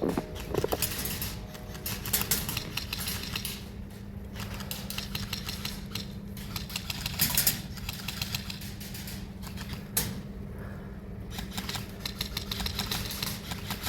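Scattered clicks and clattering, some in quick clusters, over a steady low hum.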